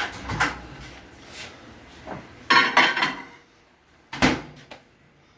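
Dishes clattering as a plate is handled: a few knocks, a rattly clatter in the middle and one sharp knock about four seconds in.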